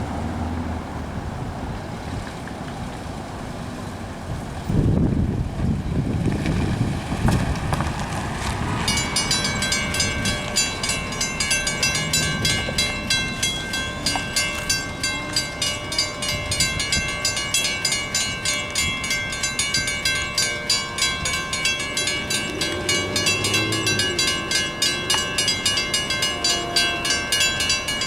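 Railroad grade-crossing warning bell starting to ring about nine seconds in, a rapid steady clanging that signals an approaching train, after road traffic passing by.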